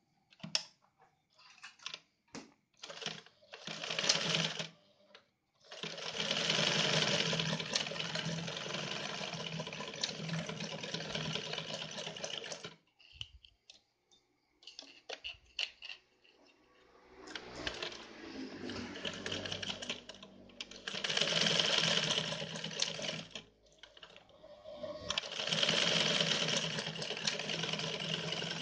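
Yamato 673 zigzag sewing machine stitching a cam-driven pattern stitch, running in three spells of several seconds with short pauses between, after a few short clicks at the start.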